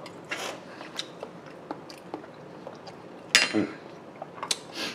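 A person chewing a bite of grilled potato salad, with small wet mouth clicks. About three and a half seconds in, a metal spoon is set down on the cutting board with a sharp clink.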